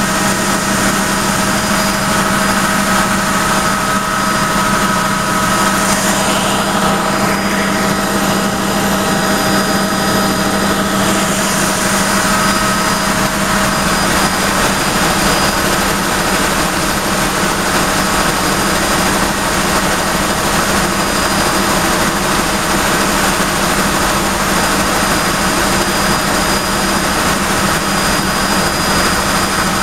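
Helicopter in flight: its engine and rotor run with a loud, steady drone and whine, holding several constant tones.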